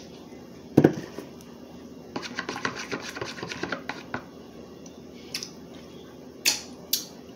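Dishes and utensils being handled at a table, clinking and knocking. There is one louder knock about a second in, then a run of quick light clicks and taps, and a few more knocks near the end.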